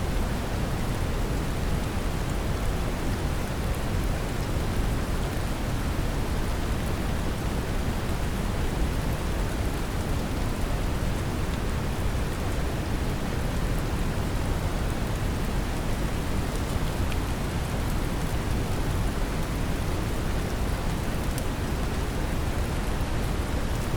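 Synthetic brown noise mixed with steady rain, a deep even hiss strongest in the bass, with faint patter of raindrops on top.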